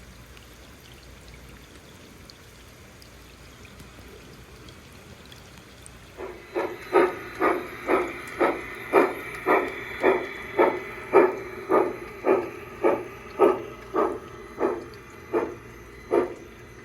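The onboard digital sound of a Piko G scale Camelback model steam locomotive: a faint steady hiss, then about six seconds in, regular steam-exhaust chuffs start at about two a second.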